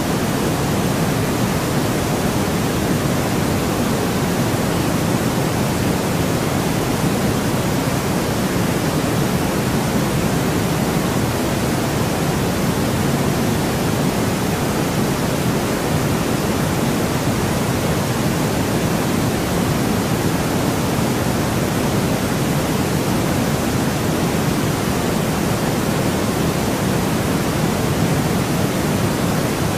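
Steady white noise: an even, unchanging hiss with most of its weight in the lower range.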